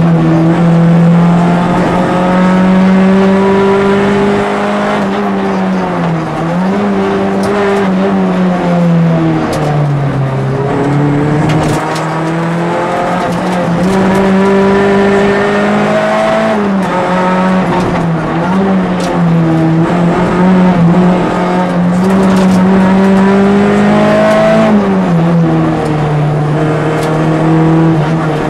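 Peugeot 206 RC rally car's 2.0-litre four-cylinder engine heard from inside the cabin at full stage pace, its pitch climbing steadily under acceleration and dropping sharply several times on braking and downshifts. A few sharp clicks come through around the middle.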